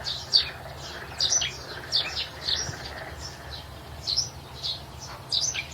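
Cockatiel chirping: a run of short, high chirps, about two or three a second, over a steady low hum.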